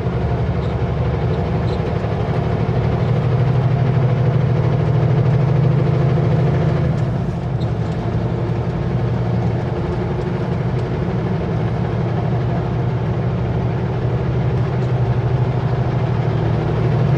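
Kenworth W900L semi truck's diesel engine running steadily while driving.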